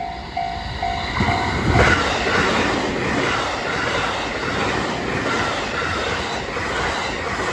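Japanese level-crossing alarm ringing its electronic two-tone ding about twice a second, then, about two seconds in, a train passing loudly over the crossing, its wheels clattering over the rail joints, with the alarm still faintly ringing underneath.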